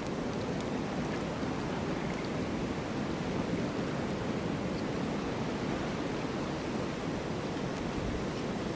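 Steady rushing wind of a snowstorm, an even roar without gusts or breaks.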